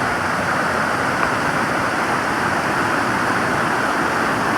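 Creek water rushing over rocks in a steady, even rush.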